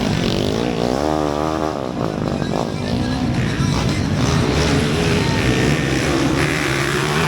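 Underbone motorcycle engines revving and running hard during a motocross race, with one engine's pitch swinging up and down briefly about a second in.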